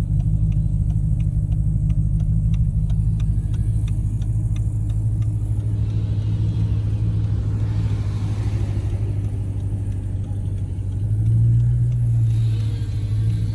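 Steady low rumble of a car on the road, with a faint, fast regular ticking in the first five seconds and a brief swell in the rumble near the end.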